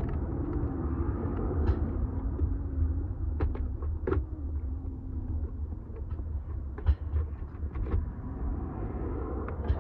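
Vehicle engine running with a low rumble, its tone wavering up and down, with scattered light clicks.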